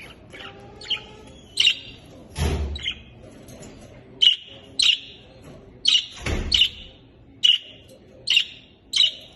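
Pet budgerigars chirping: a run of short, sharp chirps, one every half second to a second. Twice a short burst of noise cuts in among them.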